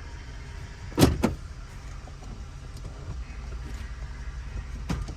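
2005 Chevrolet Tahoe's engine running with a steady low rumble, broken by a loud thump about a second in, a smaller one just after, and two more thumps near the end.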